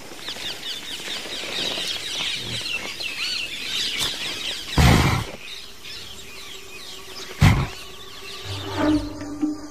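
A group of mynas chattering, with many rapid, overlapping squeaky calls, fading after about five seconds. Two loud short deep sounds cut in, about five and seven and a half seconds in.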